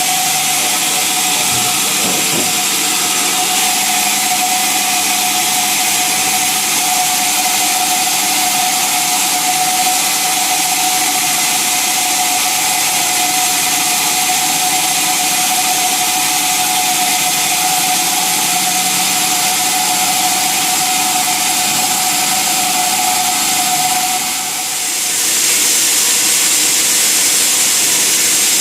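Sawmill saw and machinery running steadily with a loud hiss and a steady whine; the whine stops about twenty-four seconds in, where the sound briefly dips and comes back.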